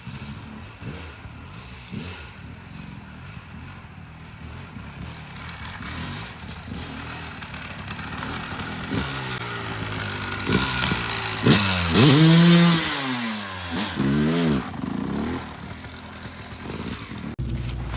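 Dirt bike engine revving. Its pitch rises and falls in several sweeps, with the loudest rev about two thirds of the way in and a couple of quick blips after it.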